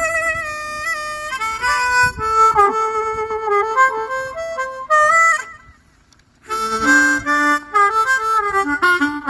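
Harmonica playing a melody of held, wavering notes and quick runs, stopping for about a second just past the middle before starting up again.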